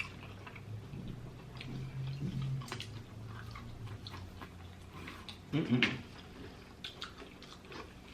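Close-up chewing and biting of crispy deep-fried food, with many small crunches, wet mouth clicks and smacks, and one louder mouth sound about six seconds in.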